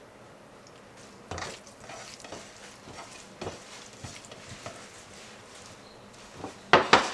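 Kitchen cooking sounds: scattered clinks and scrapes of a utensil against a pan over a faint sizzle, ending in two loud clattering knocks.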